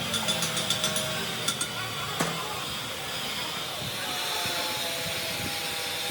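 Factory workshop machine noise: a steady hiss with faint humming tones, a quick run of light metallic clicks in the first second and one sharp metal knock a little past two seconds in.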